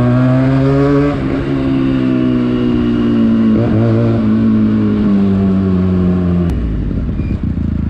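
Benelli TNT 300i's parallel-twin engine running while the bike is ridden. The engine note climbs a little, then falls slowly, with a brief dip about three and a half seconds in. It cuts off abruptly near the end, leaving a low rumble.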